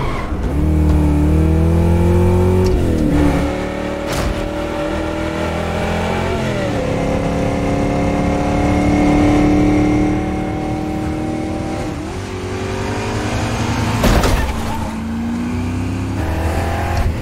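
Chevelle's engine accelerating hard, its pitch climbing and then dropping at three gear changes. There is a sharp knock about four seconds in and a louder thump near the end.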